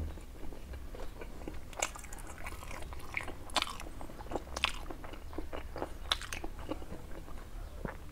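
A person chewing a mouthful of food, giving irregular mouth clicks and smacks, a few each second.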